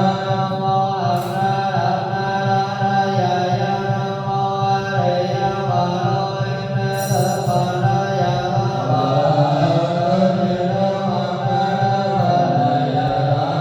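Buddhist chanting: voices sing long, drawn-out notes that shift slowly in pitch, without a break.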